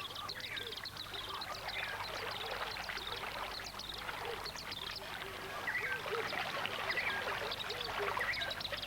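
Dense dawn chorus of many birds chirping and calling at once over a wetland, growing a little louder about six seconds in.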